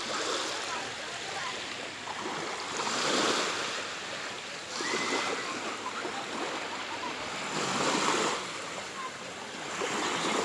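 Sea waves washing onto the shore, the surf swelling and fading every few seconds.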